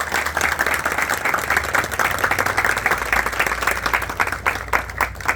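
A small crowd applauding, many hands clapping in a steady patter that thins out near the end.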